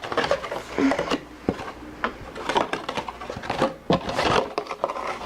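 Irregular plastic clicks, knocks and rattles from a small RC rally car and its parts being handled and taken apart by hand.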